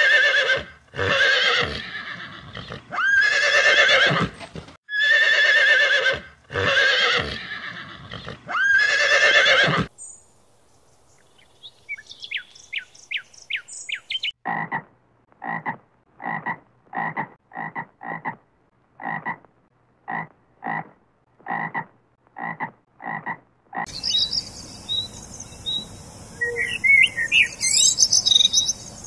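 A horse whinnying about six times over the first ten seconds, each call lasting about a second. After a short lull come faint high chirps, then a run of short croaking calls evenly spaced about one a second, and near the end bird chirps over a steady hiss.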